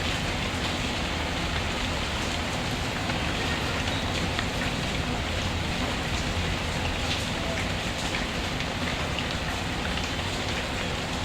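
Steady rain falling, with scattered small ticks of drops, mixed with a crackling fire in a fireplace.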